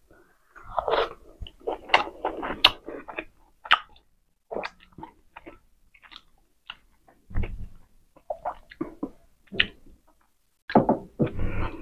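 Close-miked chewing of a mouthful of rice and pork steak: wet, smacking mouth sounds and soft crunches in bursts, with short pauses between them.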